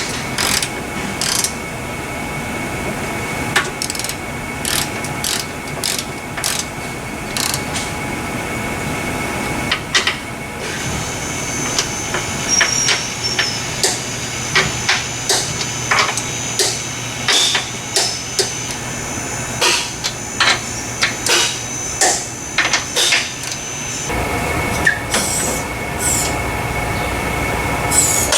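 Metal hand tools working on a car's suspension: irregular clicks, knocks and clinks of wrenches and ratcheting, more frequent in the second half, over a steady shop hum.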